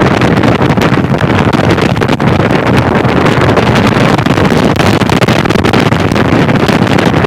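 Loud, steady wind noise buffeting the bare external microphone of a Sena 10C Evo motorcycle headset. A Garmin GPS voice instruction has switched the headset away from its in-helmet microphone to the unshielded external one, so the recording picks up only the wind.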